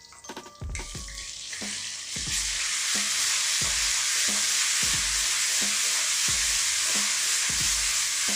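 Ginger-garlic paste sizzling in hot oil in a kadai with green chillies and curry leaves, stirred with a spatula in regular strokes, about one and a half a second. The sizzle starts about half a second in, grows louder for the next second and a half, then holds steady.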